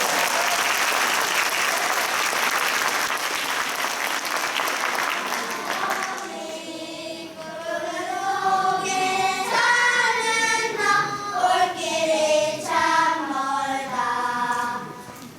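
Audience applauding for about six seconds and dying away, then a group of young children singing a song together.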